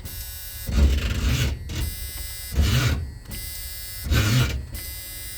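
Starter motor on a 454 big-block Chevy V8 dragging as it tries to crank the engine over, the whir surging four times about a second and a half apart. The starter is known to drag, and the owner fears the engine, found with no oil in it, may be partly seized.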